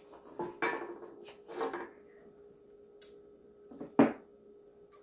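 Eating utensils clinking against plates and bowls at a table: a few light clinks early on and one sharp, much louder clack about four seconds in.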